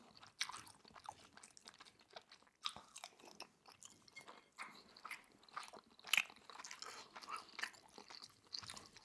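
Close-miked chewing of a mouthful of sukiyaki beef on rice, a steady run of small mouth clicks and crackles.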